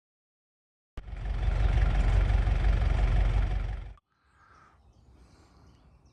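After a second of silence, steady driving noise inside an old Peugeot 404 starts abruptly: engine, road and wind rumble, heavy in the bass. It cuts off suddenly after about three seconds, leaving faint outdoor quiet with a few bird chirps.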